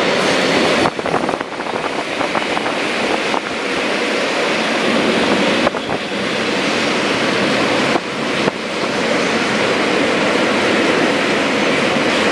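Freight train of empty double-deck car-carrier wagons rolling past at speed: a loud, steady rush of wheels on rail, with a few brief dips in level.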